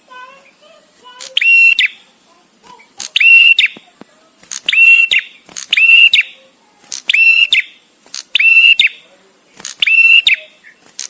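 Male prenjak tamu calling: a loud, sharp call about half a second long, repeated about every second and a half with short pauses between. Faint, softer chirps come in the first second.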